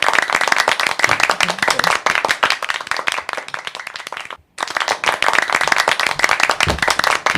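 Dense, rapid clapping like applause, cut by a brief gap of silence about four and a half seconds in.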